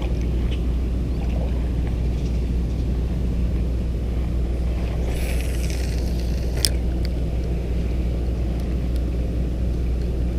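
A steady low hum runs throughout. About five seconds in, a short hiss rises and ends in one sharp click.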